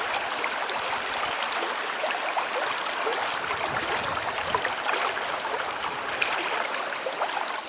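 Water running down a man-made waterfall and splashing into a pond: a steady rushing with small gurgles.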